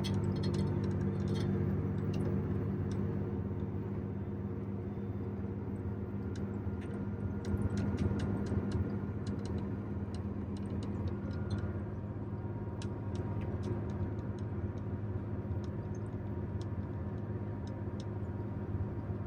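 Motorhome engine running steadily under load while climbing a long hill, a continuous low drone with scattered light ticks and rattles over it.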